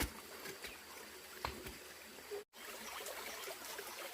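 Faint, steady trickle of running water, with a few soft knocks. The sound cuts out completely for an instant about halfway through.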